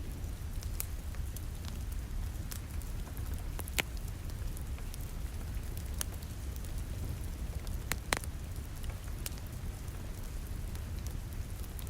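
Wood fire crackling with scattered sharp pops, two of them louder, over a steady wash of rain against a window.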